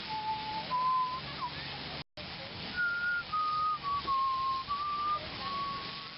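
A person whistling a slow tune in long held notes, dubbed over the shot as the camel's whistling. The sound cuts out for a split second about two seconds in.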